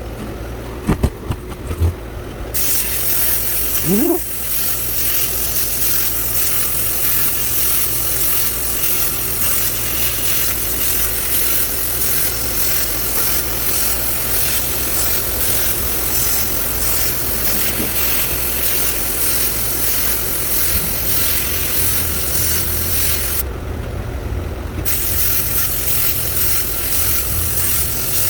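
Sandblaster blowing abrasive in a steady loud hiss, which stops briefly near the start and again about 24 seconds in. A constant low hum runs underneath, with a few knocks and a short rising squeak early on.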